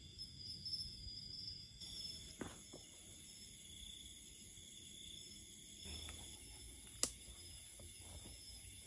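Faint forest ambience of insects trilling steadily at a high pitch, with a few soft knocks and one sharp click about seven seconds in.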